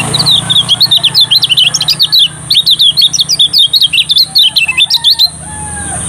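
Lemon-bellied white-eye (kecial kuning) singing a fast, chattering run of short high whistled notes, about six a second, with a short break partway and an abrupt stop about a second before the end.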